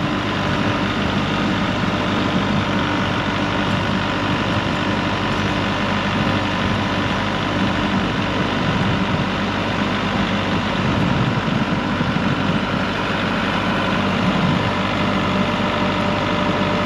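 Vehicle engine running steadily at a constant speed, a even hum with steady tones over it, while a winch pulls a stuck vehicle out of deep snow.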